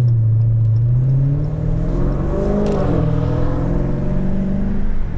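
Car engine running at a steady pitch, with a second engine note rising and falling briefly near the middle.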